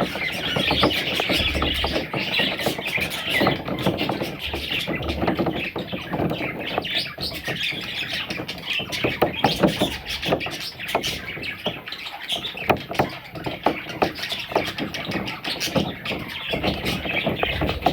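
A group of young budgerigars chattering and chirping continuously, mixed with many short clicks.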